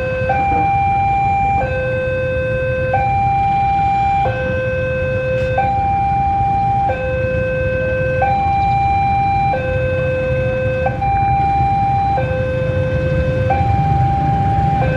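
Railway level-crossing warning alarm sounding a continuous electronic two-tone hi-lo signal, switching tone about every two-thirds of a second, which means a train is approaching and the crossing is closing. A steady low rumble runs underneath.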